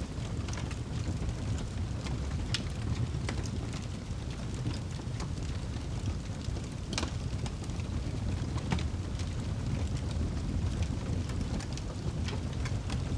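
Wood fire in a fireplace crackling: irregular sharp pops and snaps over a steady low rumble of the burning fire. The loudest pop comes about seven seconds in.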